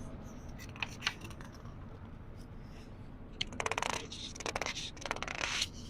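Book pages being turned slowly by hand: paper rustling and crinkling with fine crisp crackles. There are a couple of short rustles about a second in, then a longer crackling turn from about three and a half seconds in and another near the end.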